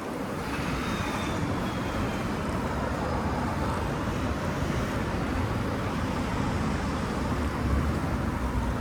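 Steady city street noise heard from a moving bicycle: passing traffic and road rumble. About a second in, a faint high whine slowly falls in pitch.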